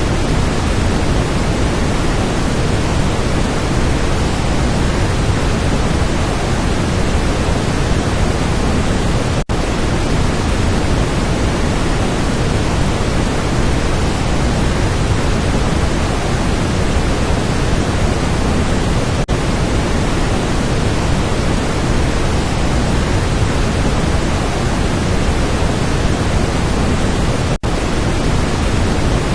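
Waterfall: a steady, dense rush of falling water, broken three times by a split-second dropout.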